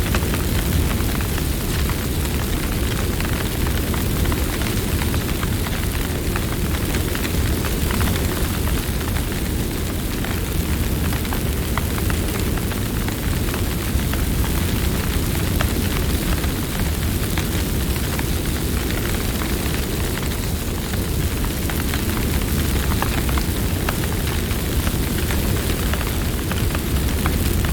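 Campfire burning: a steady low rumble of flame with frequent small crackles and pops.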